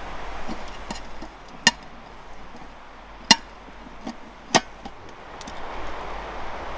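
Three sharp chopping knocks about a second and a half apart, with a few fainter clicks in between, over a steady background hiss.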